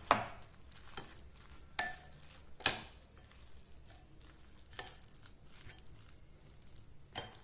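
A spoon stirring and mashing a thick mix of boiled instant noodles, egg and spices in a bowl: quiet stirring broken by a handful of sharp clinks of the spoon against the bowl.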